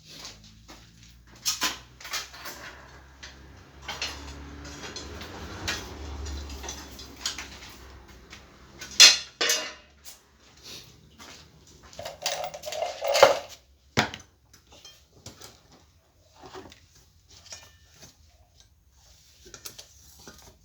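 Metal tools and parts being handled, clinking and knocking at irregular intervals, with a few louder sharp clanks. A low hum runs for a few seconds under the clinks.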